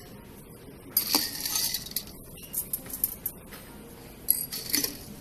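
Ice cubes scooped and dropped into a glass of juice, clinking and rattling, in a loud burst about a second in and a few shorter clinks later.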